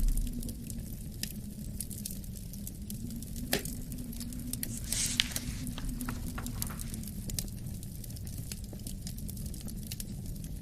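Wood fire crackling with irregular sharp pops and a brief hiss about five seconds in, over a steady low wind rumble with a low moaning tone.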